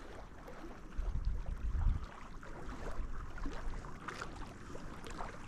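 Wind rumbling on the microphone by a lake, strongest from about one to two seconds in, over faint lapping water and a few small ticks of handling.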